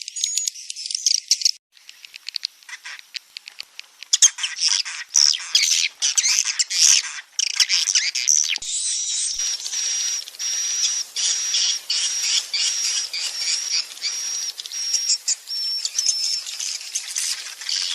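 Swiftlet lure call: recorded swiftlets twittering in high-pitched chirps and clicks. About a second and a half in, the track changes to denser twittering. From about halfway it settles into a regular run of short chirps, about two a second.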